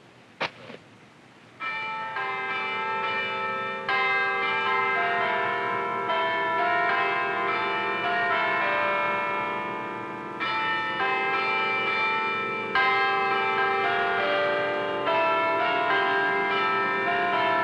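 Church bells ringing, several bells of different pitches struck in turn and sounding over one another, starting about two seconds in after a single short knock.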